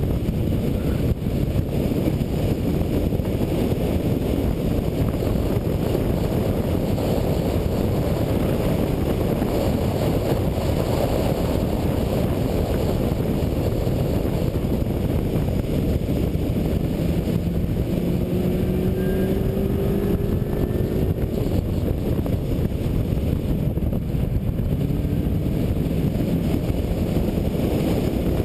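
Supercharged 4.6-litre V8 of a 2003 Ford Mustang SVT Cobra with MAC exhaust, running at speed on a road course. Heavy wind rush buffets the hood-mounted camera. About two-thirds of the way through, the engine's pitch climbs faintly under acceleration.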